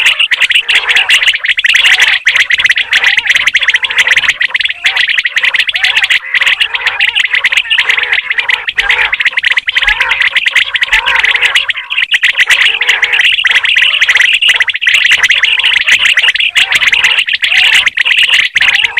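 Common quail calling, many chirping calls overlapping into a dense, loud, continuous chorus.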